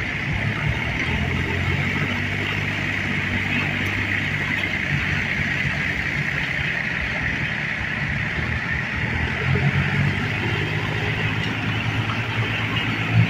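An engine idling steadily with a low hum, briefly louder near the end.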